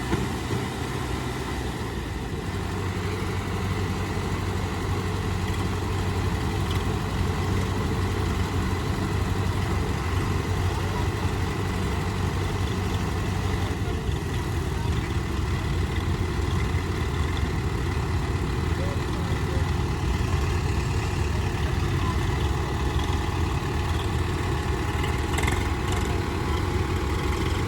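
Tractor diesel engine running, a steady low drone that grows louder about two seconds in and then holds.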